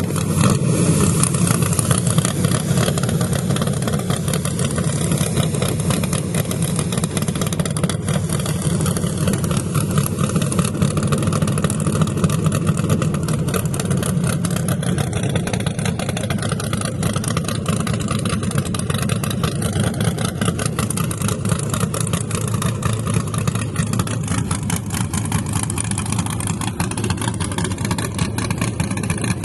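A drag car's engine running steadily for the whole stretch, its exhaust pulses coming fast and even, with no big rev sweeps.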